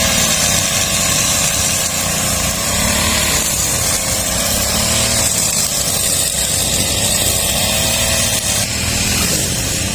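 A small engine running steadily, its pitch wavering gently up and down, with a strong hiss.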